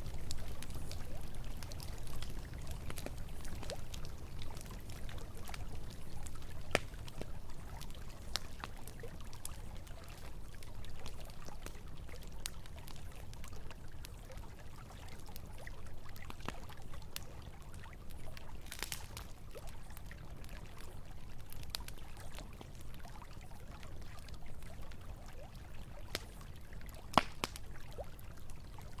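Campfire crackling with scattered sharp pops, one louder pop near the end, over the steady low rush of flowing river water.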